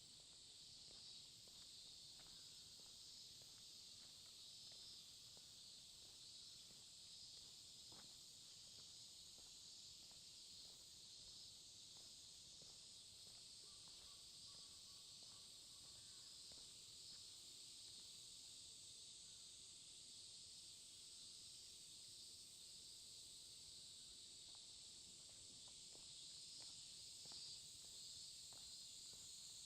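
Faint, steady high-pitched chorus of insects chirring, with soft, irregular footsteps of someone walking.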